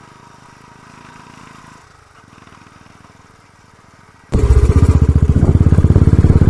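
Motorcycle riding up a steep road. The engine is faint at first, then about four seconds in the sound jumps abruptly to a loud low rumble with a rapid, even pulsing.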